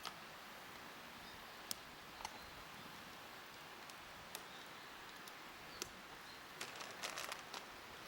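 Scattered sharp clicks and small snaps over a steady faint hiss, with a denser flurry of them about six and a half seconds in.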